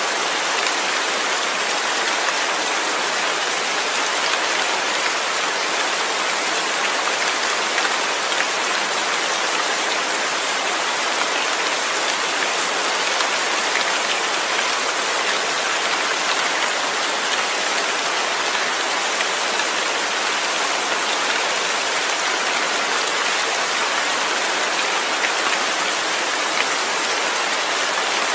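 Steady rain falling, an even hiss of many drops with scattered small patters, unchanging throughout.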